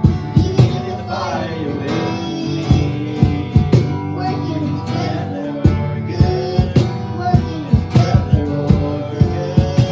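Live worship music: acoustic guitar strumming in a steady rhythm over sustained held notes, with some faint singing.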